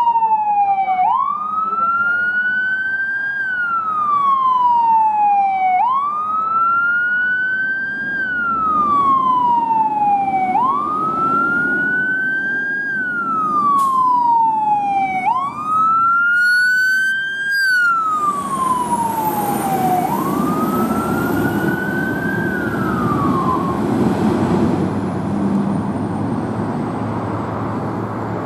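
Fire engine siren wailing, rising quickly and falling slowly in a cycle about every five seconds, over engine and road noise. About eighteen seconds in, the rumbling noise grows louder, and the wail winds down a few seconds later.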